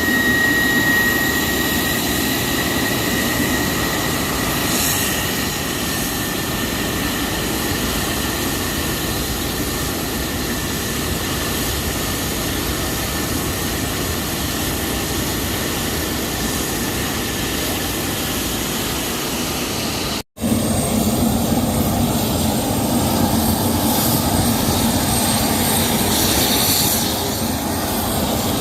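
Antonov An-124's four D-18T turbofan engines running: a steady jet roar with a high whine that slowly falls in pitch. About twenty seconds in, it cuts off abruptly and resumes with a thinner, higher whine.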